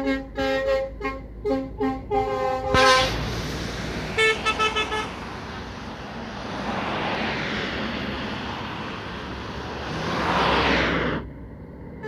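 Convoy trucks sounding their horns as they pass: a run of short horn blasts over the first three seconds, then a quick series of shorter, higher toots about four seconds in. After that, the rush of passing lorries swells twice.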